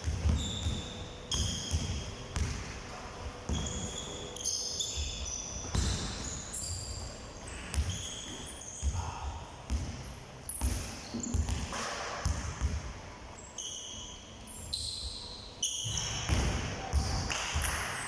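Basketballs bouncing repeatedly on a hard court, with many short high squeaks of shoes on the floor and voices in the background.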